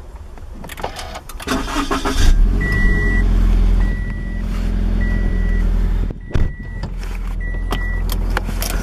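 A car engine cranked with the push-button start, catching about two seconds in with a loud flare of revs, then settling to a steady fast idle. A dashboard warning chime beeps five times, about a second apart, over the idle.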